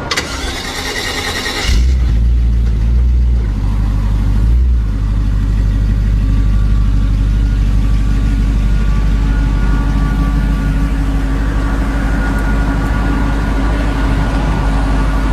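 Twin-turbo VW T3 van's engine running with a deep, steady rumble that comes in about two seconds in, after a brief hiss, and shifts a little in pitch over the following few seconds before settling.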